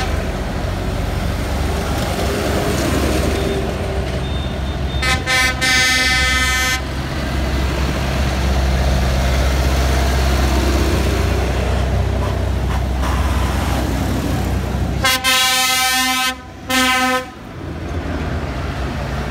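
Tractor engines running steadily as a tractor procession passes. A horn sounds for nearly two seconds about five seconds in, and again near the end as a long blast followed by a short one.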